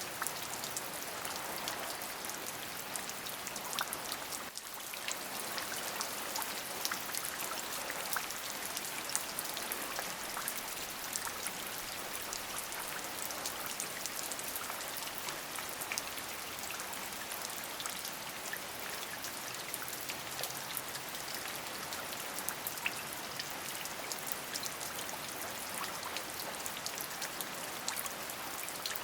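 Steady rain falling, an even hiss thick with the fine ticks of individual drops, dipping briefly about four and a half seconds in.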